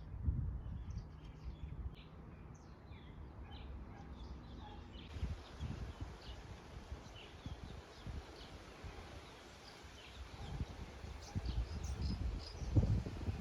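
Small birds chirping in short, scattered calls over a low rumble.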